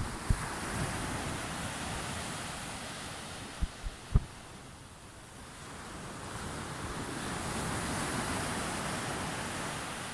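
Sea waves washing in: steady surf noise that ebbs about five seconds in and swells again near eight seconds. A few short low thumps of wind buffeting the microphone come near the start and around four seconds in.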